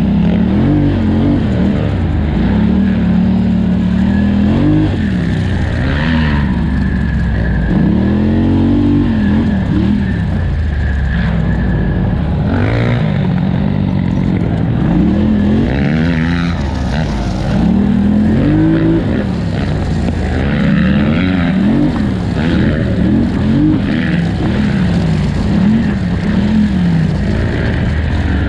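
Polaris Scrambler 1000 XP ATV engine at racing pace, loud and continuous, its revs climbing and dropping every second or two as the throttle is worked on and off.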